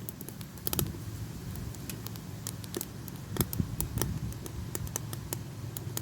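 Dry wood burning in the firebox of a wood-fired samovar, crackling with irregular sharp pops over a low steady rumble.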